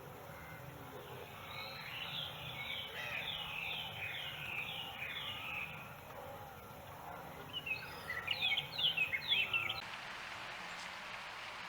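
Birdsong: a run of repeated short down-slurred notes, then a louder burst of quick down-sliding notes. About ten seconds in, it cuts off suddenly to a steady hiss.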